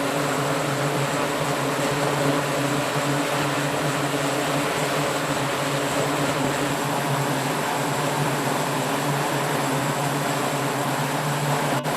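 The twin T56 turboprop engines of an E-2D Advanced Hawkeye running steadily: a constant propeller drone with a low hum under a loud hiss, briefly cutting out near the end.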